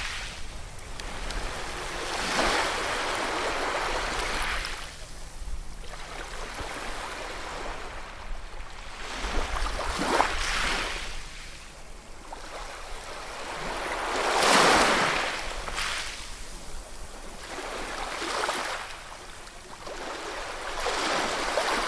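Ocean waves breaking and washing ashore in several surges. Each swells and fades over a few seconds, and the loudest comes about two-thirds of the way through.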